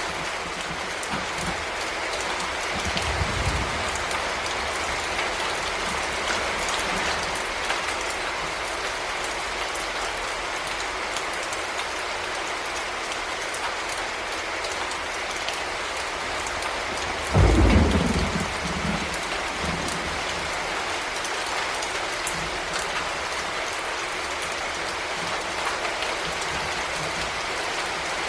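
Heavy rain falling steadily in a thunderstorm. A faint low rumble of thunder a few seconds in, and a loud, short thunderclap about two-thirds of the way through that dies away over a second or two.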